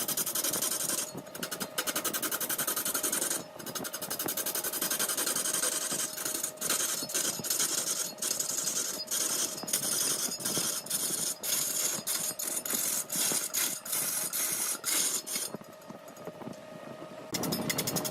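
Large wood lathe turning a workpiece while a turning tool cuts the spinning wood: a dense, fast rattle with a steady hum underneath. The cutting eases off for about two seconds near the end.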